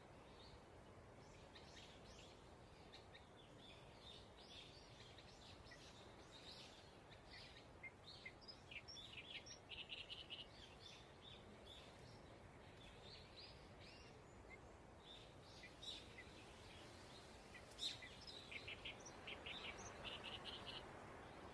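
Birds chirping, faint, over a low steady background hiss; short high chirps come thickest in quick runs about a third of the way in and again near the end.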